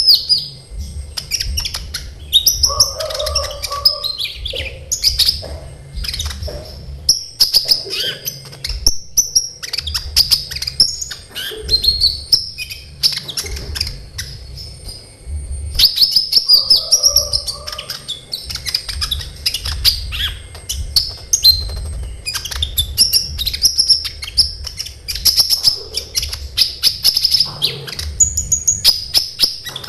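Kolibri ninja sunbird singing in full song: fast, dense runs of sharp, high-pitched chirps and trills in repeated phrases, with a couple of short pauses.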